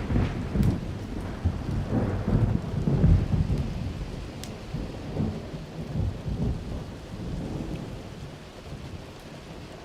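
Rolling thunder rumbles over steady rain, loudest in the first few seconds and then dying away. A few sharp pops from a crackling wood fire come through.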